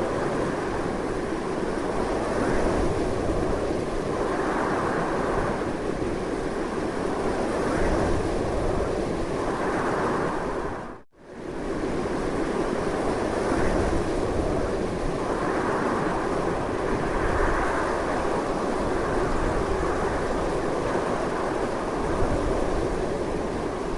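Strong, continuous wind: a steady rushing noise, heaviest in the low range, that swells slightly at times. About eleven seconds in it briefly fades almost to silence and comes straight back, as at a loop join.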